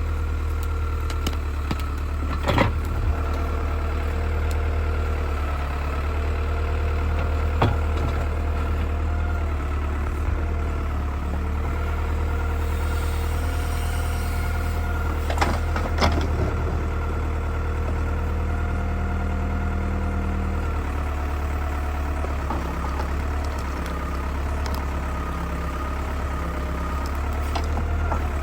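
Old tractor backhoe's engine running steadily as it works, with a deep low drone and a few sharp knocks along the way.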